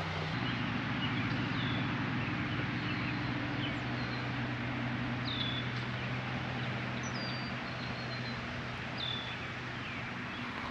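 Outdoor ambience: birds give several short, high, falling chirps over a steady low hum and a background hiss.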